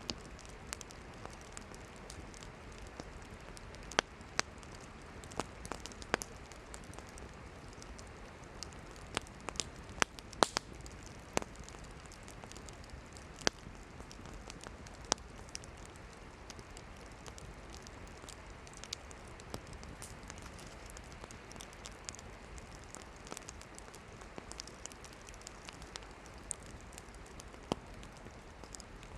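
Campfire of burning firewood crackling, with irregular sharp pops and snaps over a steady low hiss of the flames.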